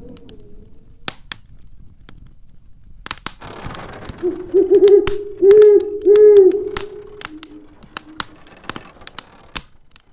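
Wood fire crackling in a fireplace with many sharp pops throughout. About four seconds in, the storm wind starts a loud whistling howl that holds near one pitch, swoops up and down twice, and dies away about three seconds later.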